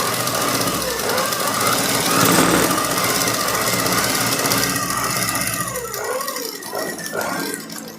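Sewing machine running fast with a 3-in-1 piping foot fitted, stitching a row. The machine noise is steady for about six seconds, then eases off near the end.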